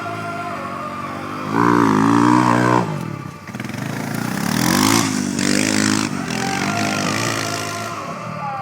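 Off-road vehicle engine revving hard in two surges, a loud one about a second and a half in and a second after a brief drop near three seconds, as the vehicle powers up a dirt bank; it then runs on more steadily, slowly falling away.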